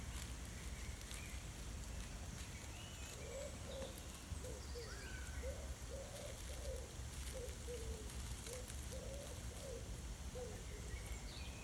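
A bird cooing in a run of short, low notes through the middle, with small birds chirping higher over a steady low rumble.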